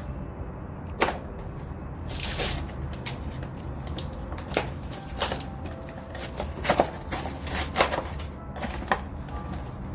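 Household items being handled and set down: scattered sharp clicks and knocks, with a brief rustle about two seconds in.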